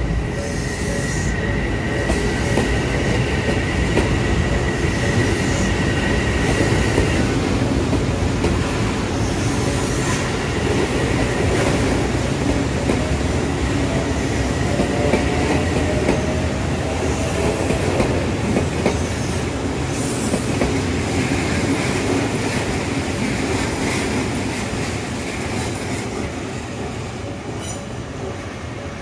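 Odakyu Line commuter train passing over a level crossing, its wheels clattering on the rails with a thin high squeal for the first seven seconds or so. The noise fades toward the end as the train goes by. Under it the crossing's warning bell keeps ringing in an even, repeating pattern.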